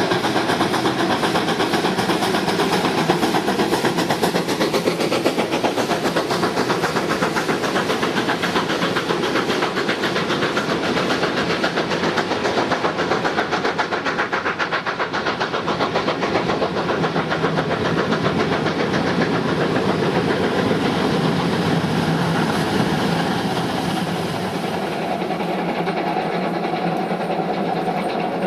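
Steam train on the move: a steady, dense rush of locomotive exhaust and running noise on the rails that eases slightly near the end.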